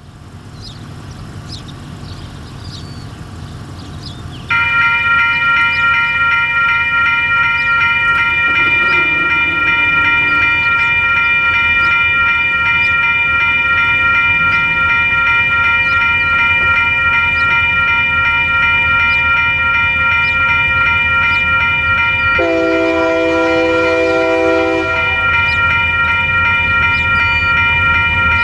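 Union Pacific locomotive air horn sounding a steady multi-note chord, held without a break, over the rumble of the approaching train. About 4.5 s in the horn comes in; for a couple of seconds near the end a lower chord joins it.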